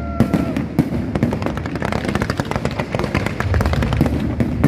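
Fireworks display: a dense, rapid run of crackling pops and bangs over a continuous low rumble.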